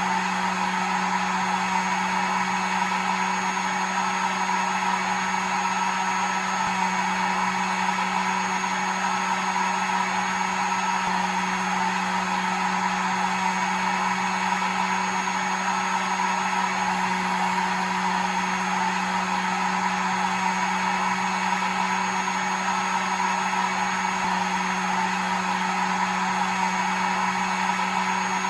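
Hair dryer running steadily, a constant whirring rush with a low electric hum, used as white noise to lull a baby to sleep.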